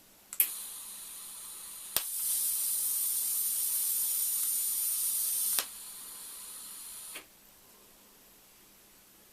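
TIG welding torch making a short weld on stainless steel. Shielding gas starts with a click and hisses, then the arc strikes with a sharp click and burns with a loud, high hiss for about three and a half seconds. The arc cuts out, the gas hisses on for about a second and a half, then stops.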